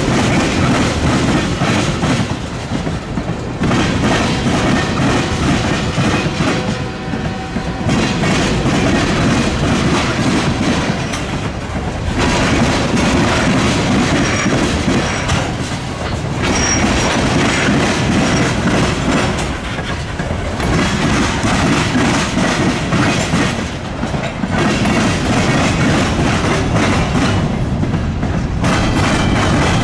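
Freight train rolling across a railroad diamond crossing, its wheels clattering over the crossing in a rhythm that swells about every four seconds as each car's wheels pass.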